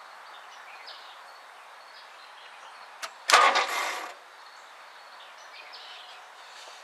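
A click, then the starter briefly cranks the 1964 Ford Thunderbird's V8 for under a second without it firing. The engine is being bumped over to bring the distributor points onto a high spot of the cam.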